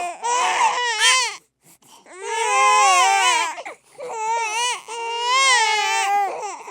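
An infant crying hard: loud, high-pitched wavering wails, broken by a short pause for breath about one and a half seconds in and then resuming in long cries.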